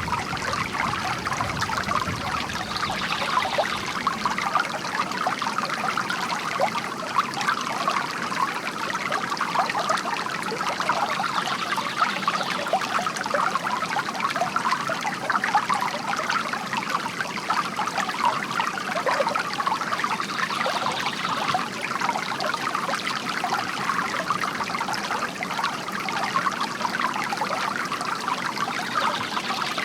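Bamboo water fountain: water trickling and splashing steadily, without a break.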